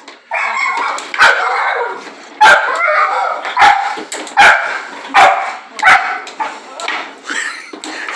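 A dog barking and yipping excitedly over and over, with several sharp knocks among the barks, as of the ball and rods banging in a foosball table.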